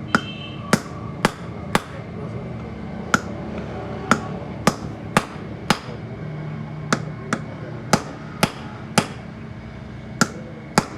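Hammer blows on metal: a run of sharp, ringing strikes, roughly two a second at an uneven pace, with short pauses between groups.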